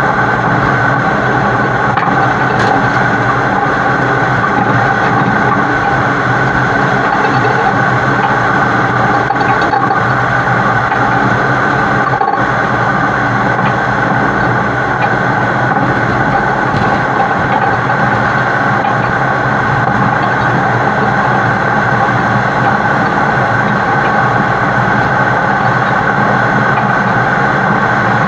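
Heavy-haul truck pulling an oversized load, its diesel engine running at a steady, unchanging drone with road noise, heard close up from a camera mounted on the truck's side.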